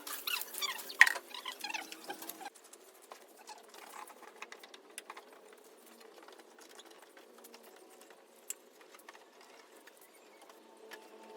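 High-pitched bird chirping for about two and a half seconds, stopping abruptly, followed by faint scattered ticking.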